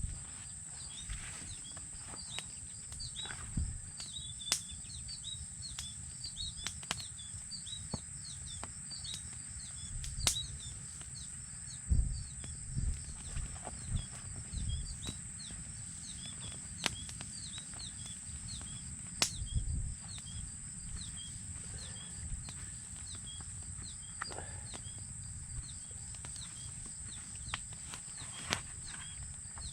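Outdoor ambience: a bird calling over and over in short falling chirps, over a steady high-pitched hiss, with scattered sharp clicks and a few low thumps.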